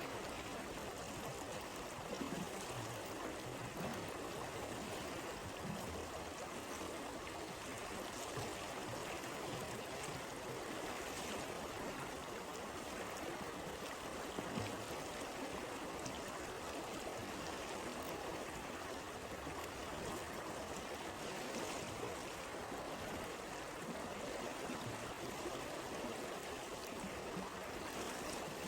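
Steady rush of a flowing stream, with a few faint crackles from a campfire now and then.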